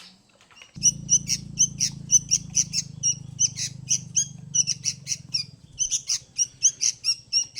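Birds chirping and squawking rapidly, several sharp high calls a second, over a low steady hum that starts about a second in and drops lower near the end.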